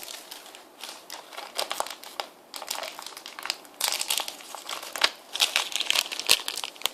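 A Meiji Hello Panda biscuit packet crinkling as it is handled and opened, in irregular crackles that grow louder in the second half.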